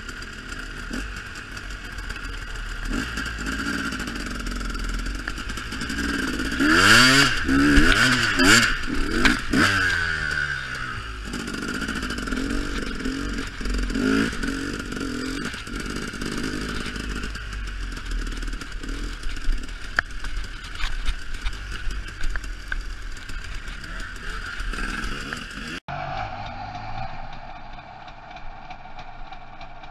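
KTM enduro motorcycle engine heard from on board the bike, revving up and down while riding a rough forest trail, with a louder burst of hard revving about a quarter of the way in. The sound changes abruptly near the end.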